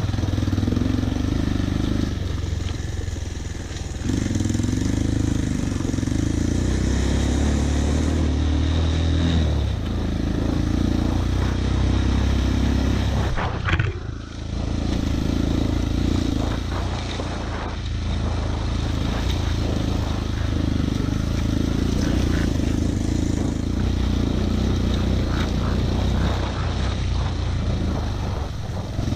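Off-road motorcycle engine running under load, its revs rising and falling every couple of seconds. There is a sharp knock about halfway through.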